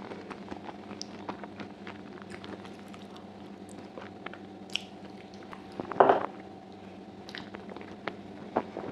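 Close-miked chewing and wet, squishy mouth sounds of eating stewed sheep's trotters with chickpeas, with many small clicks and one louder wet sound about six seconds in.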